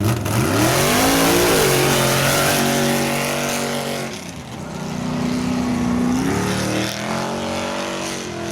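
Off-road vehicle's engine revving hard in a mud run. It climbs steeply at the start and holds high, eases off about four seconds in, then revs up again and holds.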